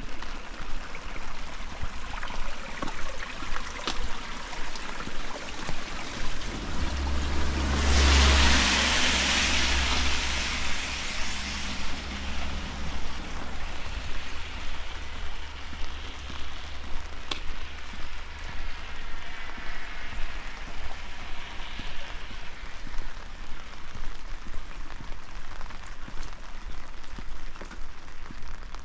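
Steady rain falling and pattering around the walker. About seven seconds in, a vehicle passes on the wet road, its low rumble and tyre hiss swelling for a few seconds and then fading.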